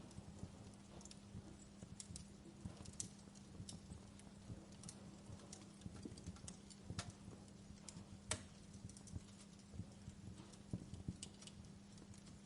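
Wood fire crackling in a fireplace, with irregular sharp pops and snaps, the sharpest about eight seconds in, over a faint steady hum.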